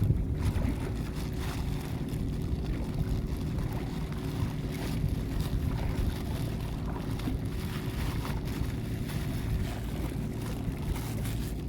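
Small boat's engine running steadily, with wind buffeting the microphone.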